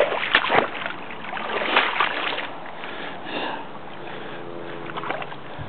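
Mountain bike tyres pushing through axle-deep swamp water, splashing and sloshing in swishing surges, with a sharp click about a third of a second in.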